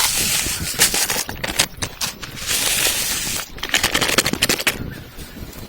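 Wood campfire crackling and hissing, with rapid sharp pops, dying down near the end.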